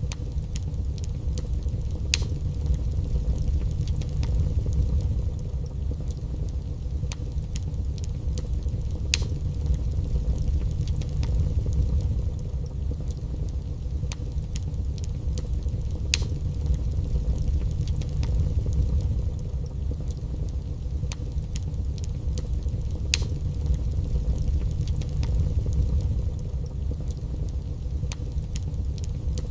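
Wood fire burning in a fireplace: a steady low rumble with irregular crackles and pops scattered through it, a few of them sharper and louder than the rest.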